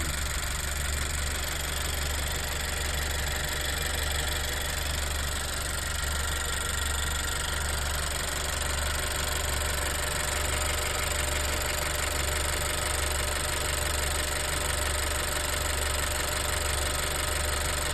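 Honda CR-V's 1.5-litre turbocharged four-cylinder (L15) engine idling steadily at full operating temperature, with the ticking that the owner puts down to the valves.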